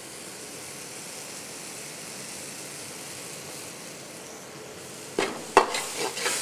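Onion-tomato masala sizzling in a wok, heard as a steady hiss. About five seconds in, a steel ladle starts stirring, scraping and knocking against the pan.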